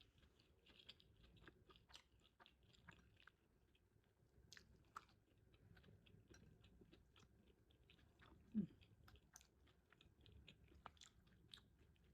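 A person chewing food close to the microphone, quiet wet mouth clicks throughout, with a brief low hum falling in pitch about eight and a half seconds in.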